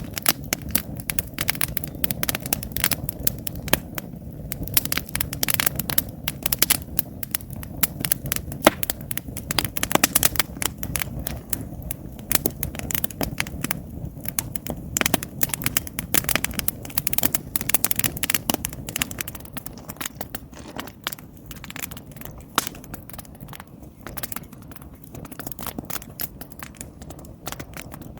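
Wood campfire burning, with dense crackling and sharp pops from the logs over a steady low background of the fire. The pops thin out a little near the end.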